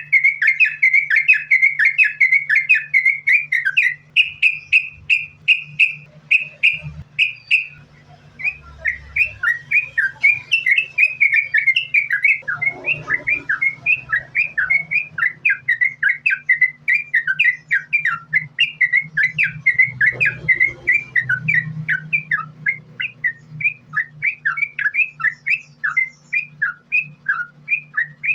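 Sooty-headed bulbul (trucukan) singing a rapid, unbroken run of short whistled notes, several a second, with a brief pause about eight seconds in.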